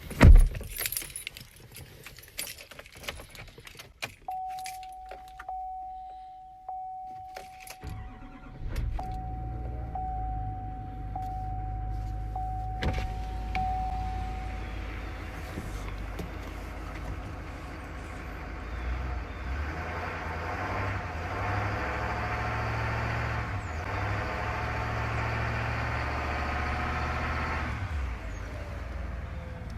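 A door shuts with a bang and keys jangle, then a steady dashboard chime sounds. About eight seconds in, the 2019 Duramax 6.6-litre V8 turbodiesel starts cold and settles into a steady low idle.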